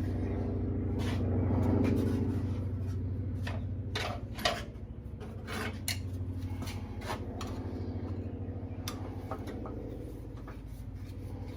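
Irregular metallic clinks and knocks of hand tools and engine parts being handled during teardown, over a steady low hum.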